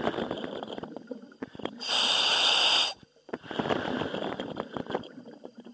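A diver breathing through a demand regulator, heard over the diving radio: a loud hiss of gas on each inhalation, about two seconds in, between crackling, bubbling exhalations.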